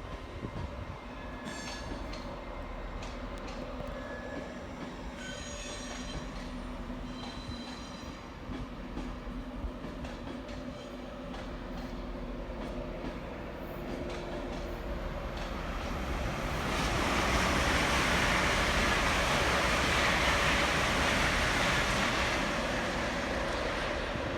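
A train running through the station on the rails, with short high wheel squeals in the first few seconds, then growing much louder as it passes close from about two-thirds of the way in, easing off near the end.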